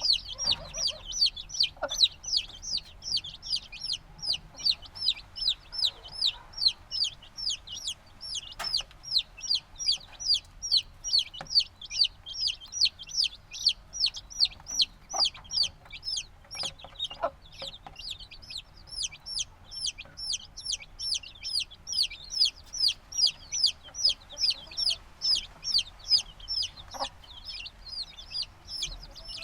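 A brood of chicks a few days old peeping without pause: high, downward-sliding peeps, about three a second, with a few faint knocks here and there.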